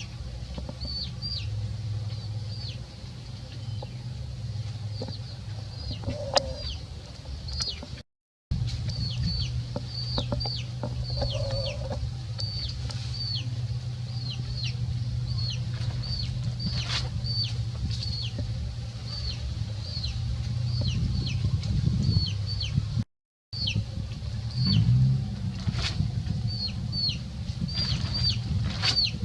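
Bird chirping: short, high, downward-slurred chirps repeated about twice a second, over a steady low hum. The sound cuts out completely twice, briefly, at about 8 s and 23 s in.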